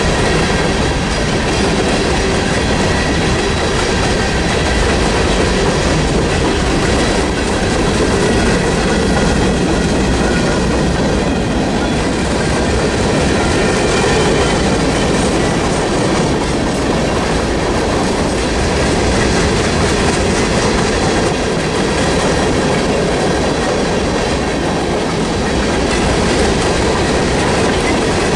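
A freight train's cars rolling past close by, steel wheels on rail making a steady, loud noise with faint high ringing tones above it.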